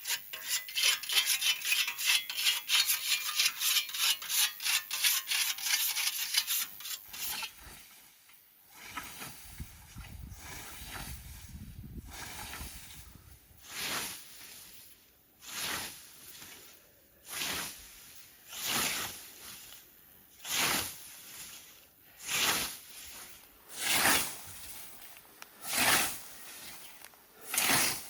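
Hand tool scraping in a steady rhythm: quick rasping strokes, about four or five a second, for the first seven seconds or so. After a lull, slower single strokes follow, about one every second and a half to two seconds.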